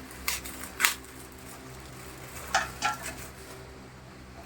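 A few short crackles from a plastic bag being handled, two near the start and two about halfway through, over a faint steady low hum.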